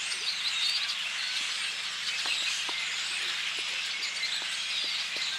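A large flock of birds in trees chattering all at once: a dense, continuous din of many overlapping short chirps and squeaks.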